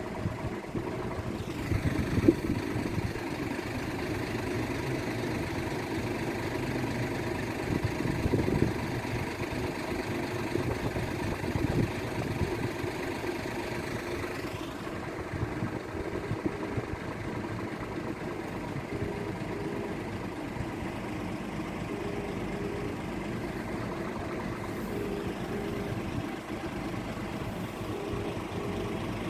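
Steady idling vehicle hum. From about halfway in, a short double beep repeats about every three seconds.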